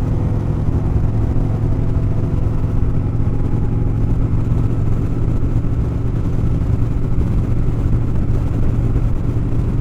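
Motorcycle engine running at a steady cruise, heard from the rider's own bike with wind noise, holding an even drone without revving up or down.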